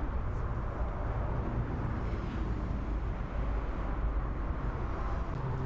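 Steady low rumble of airport ambience with distant jet aircraft engine noise, even throughout with no distinct events.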